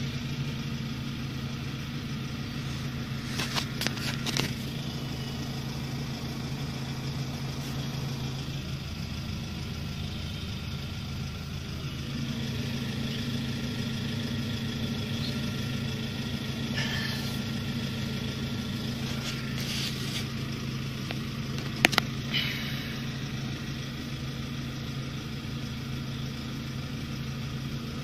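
Car engine idling steadily, heard from inside the cabin. A few light knocks and clicks break in, the sharpest and loudest about three-quarters of the way through.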